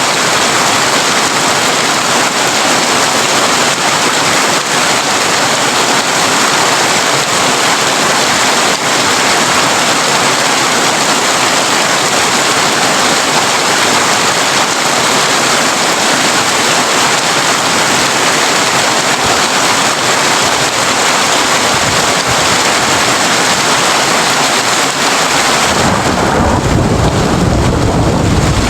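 Heavy rain drumming steadily on a tin roof, a dense even hiss. About three seconds before the end, a low rumble of thunder swells in under the rain.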